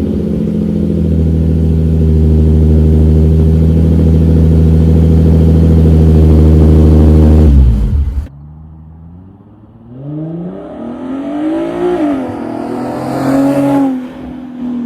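Nissan 350Z's VQ V6 through a Motordyne Shockwave exhaust, held loud at a steady raised rev for about seven seconds before dropping away. After that it runs quieter, with a few revs that rise and fall near the end.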